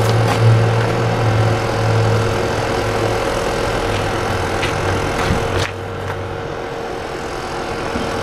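A steady low mechanical hum, like an engine running, under a hiss of water spray. The hiss cuts off suddenly a little over five and a half seconds in, and the hum carries on more quietly.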